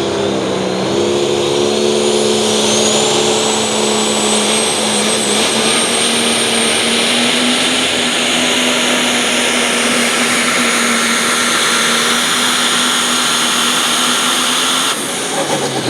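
2016 Dodge Ram pulling truck under full throttle, making its pull down the track: a steady engine note with a high whistle that rises over the first few seconds and then holds. The engine cuts back suddenly about fifteen seconds in, at the end of the run.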